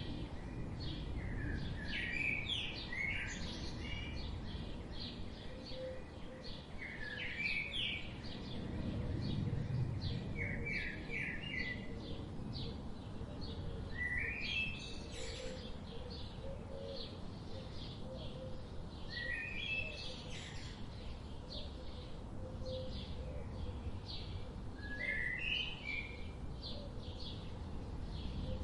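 Several birds chirping, with one bird repeating a short phrase of quick notes every few seconds over many fainter, higher chirps and a steady low background rumble.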